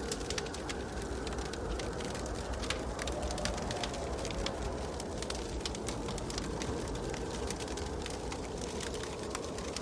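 Wood fire crackling in a fireplace: many small, irregular sharp pops and snaps over a steady low rumble of burning.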